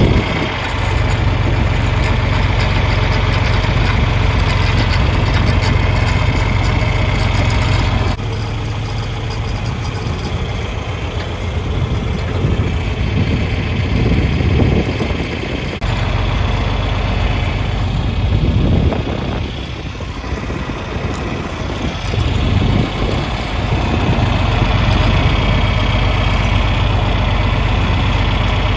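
Vintage John Deere tractor engine running steadily under way, with the loudness dipping and recovering a few times.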